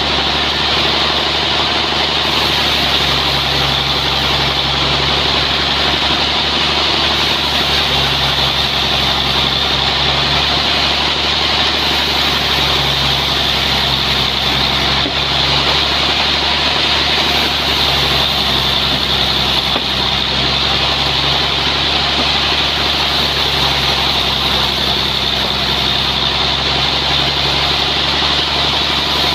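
Sawmill machinery running steadily with an even engine drone and a strong high hiss over it, unbroken throughout.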